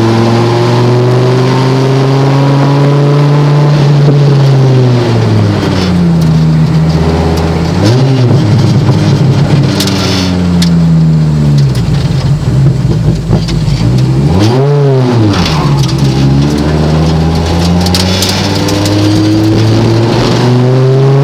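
Dodge Viper GTS's V10 engine heard from inside the cabin, pulling hard through the gears on track: the revs climb, drop off, and climb again several times. Twice, about 8 and 15 seconds in, there is a quick rise and fall in revs, and near the end a long steady climb.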